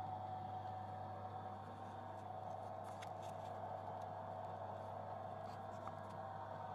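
Mini bench lathe running steadily, a constant motor whine over a low hum, with a few faint light clicks.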